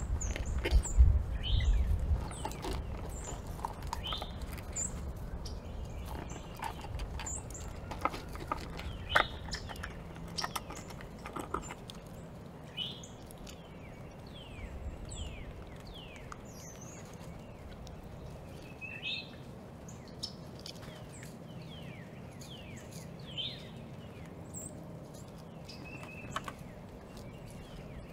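Birds chirping over and over in short, falling notes, with scattered sharp clicks and taps through the first half. A low rumble dies away in the first two seconds.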